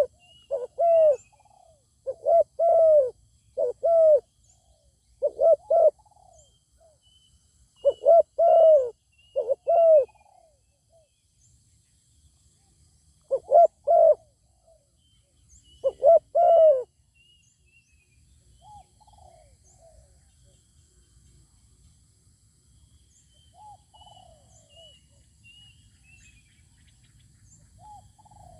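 Spotted doves cooing: loud, repeated coo phrases in groups for about the first seventeen seconds, then only faint, more distant cooing. Small birds chirp faintly in the background.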